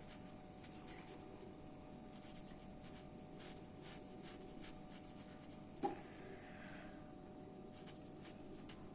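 Faint scratching of a colouring tool on paper as an alligator drawing is coloured in, with one brief louder blip about six seconds in.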